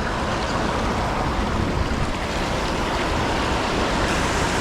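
Steady rush of flowing creek water, an even noise without breaks.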